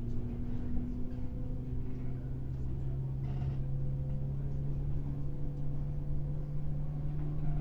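JR 103 series electric train's MT55 traction motors and gears whining under the floor of the motor car, the whine rising slowly in pitch as the train gains speed, over the rumble of the wheels on the rails.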